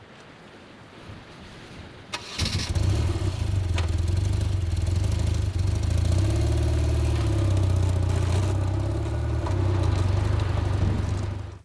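Motorcycle engine starting about two seconds in, then running steadily at idle before stopping abruptly near the end.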